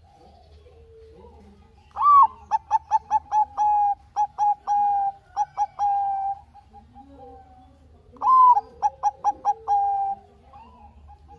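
Zebra dove (Bangkok-type perkutut) cooing: two song phrases, each opening with a higher note, then a quick run of short coos settling into longer held coos. The first phrase lasts about four seconds, the second, shorter, begins about eight seconds in.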